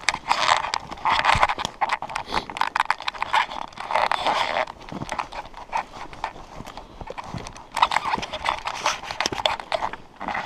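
Footsteps of hunters walking through forest undergrowth: a dense run of crunches, snaps and crackles, louder in three bursts.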